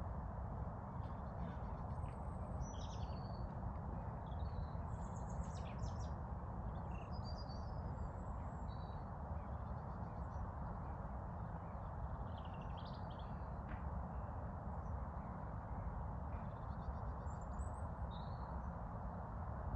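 Songbirds chirping and singing in short, scattered high phrases over a steady low background rush.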